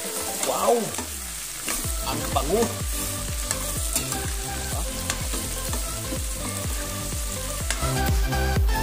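Chunks of boiled beef sizzling in butter with onions in a frying pan, stirred and turned over with a ladle. Background music with a low beat plays underneath.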